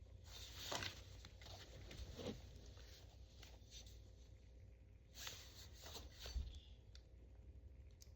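Faint handling noise: light rustling and a few soft clicks and knocks, with a low hum underneath.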